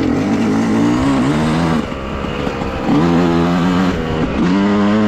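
Dirt bike engine under way on a trail, revved three times: each burst of throttle rises in pitch, then drops back as the throttle is eased.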